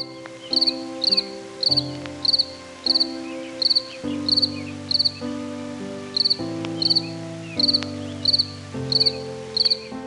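Cricket chirping in a steady series, about one and a half chirps a second, each chirp a short pulsed trill, over background music of held notes.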